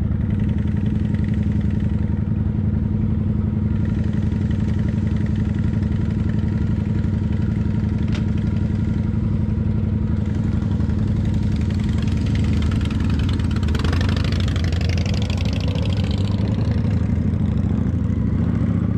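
Kawasaki motorcycle engine running at a steady pitch. About three-quarters of the way through, a rushing hiss rises over it for a couple of seconds.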